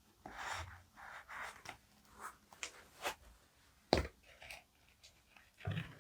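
Paper being handled for journaling: soft rustling and sliding of sheets in the first two seconds, then a few light clicks and one sharper tap about four seconds in.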